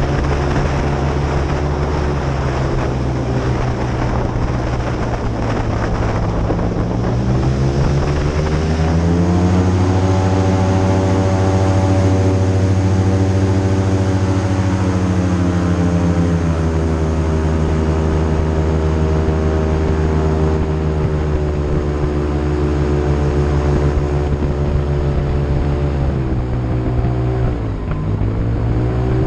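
Airboat engine and propeller running loudly under way. The pitch rises about eight seconds in as the throttle opens and holds high for several seconds, then eases off. It dips briefly near the end before picking up again.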